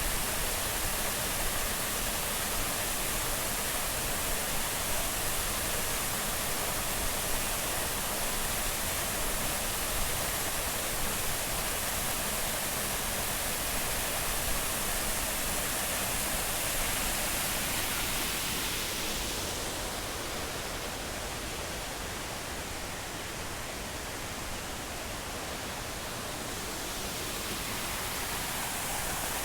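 Triberg waterfall's cascades rushing, a loud steady roar of falling water. The hissing top of the sound thins out for several seconds past the middle, then comes back near the end.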